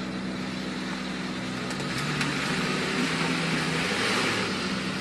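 Suzuki 4x4's engine running under load, its pitch rising about two seconds in as it revs to pull through mud, with a rushing noise that grows louder toward the end.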